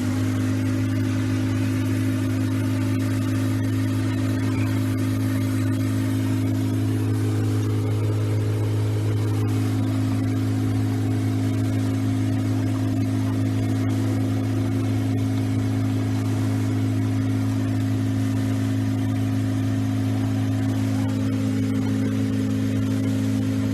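An engine running steadily at a constant speed: a low, even hum with a few fixed overtones that comes on suddenly and holds level, with a slight change in its tone about nine seconds in.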